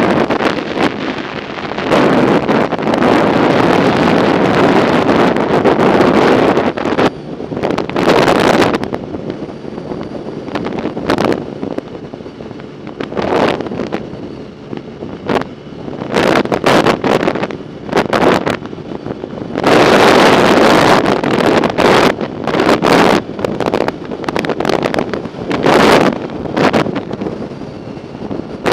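Wind buffeting the microphone of a camera carried on a moving bicycle, in gusts that swell and fall every second or two with sharp crackling hits.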